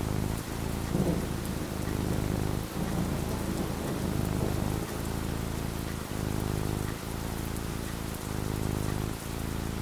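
Steady rain falling, with a low rumble of thunder that is loudest about a second in.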